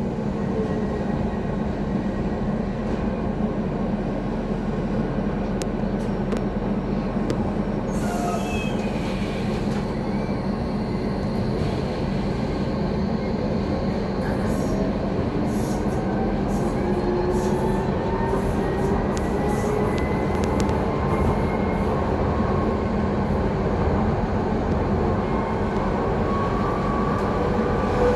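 Docklands Light Railway train running, with the steady rumble of wheels on rails. Over it the electric traction motors whine in tones that climb slowly as the train gathers speed, with occasional short wheel squeals and clicks.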